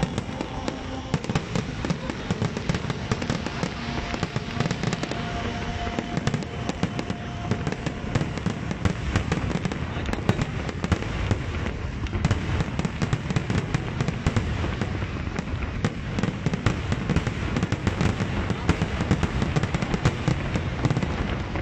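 Aerial fireworks shells bursting in a dense, continuous barrage: a rapid stream of booms and sharp crackling, with no pause.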